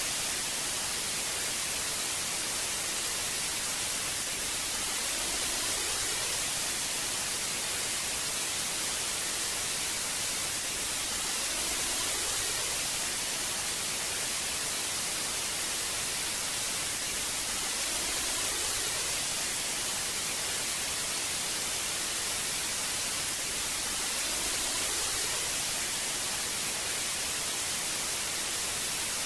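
Old analogue TV static: a steady hiss, brightest in the high end, swelling slightly about every six seconds.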